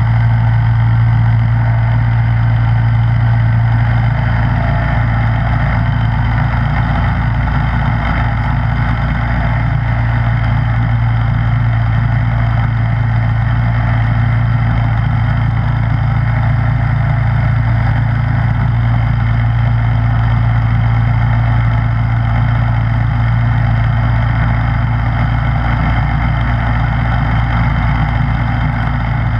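Snowblower engine running steadily at a constant speed, a loud, even drone with no change in pitch.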